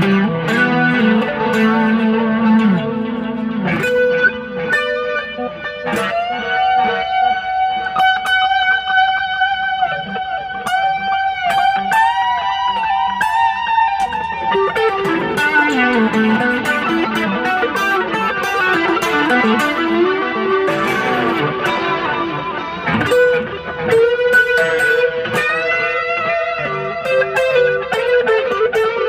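Stratocaster electric guitar played on a clean amp setting with a little chorus: single-note lead lines, plucked notes ringing out with bends and vibrato.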